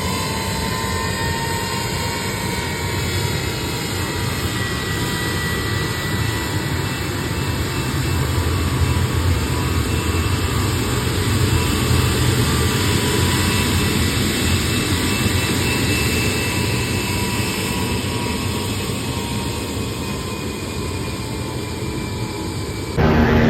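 Jet aircraft engines running: a steady loud rush of engine noise with thin whining tones that drift slowly down in pitch. Near the end it breaks off abruptly into a different, louder engine sound.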